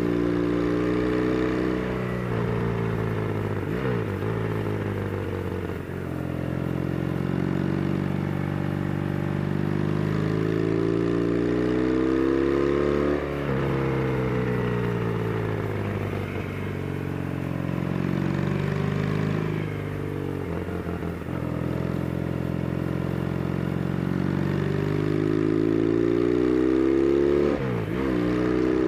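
Yamaha TX750's 743 cc air-cooled parallel-twin engine pulling the motorcycle uphill, heard from onboard. The engine note rises as it accelerates and drops sharply at each gear change, several times over.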